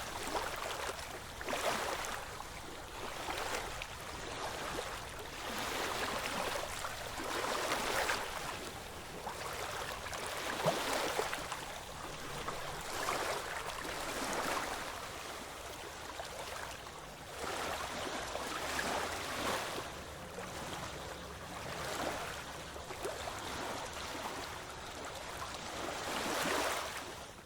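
Ocean waves washing in, small surges of surf that swell and ebb every second or two, cutting off suddenly at the end.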